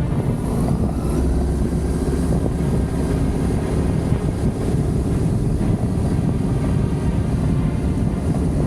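Adventure motorcycle engine running steadily at riding speed, a constant drone.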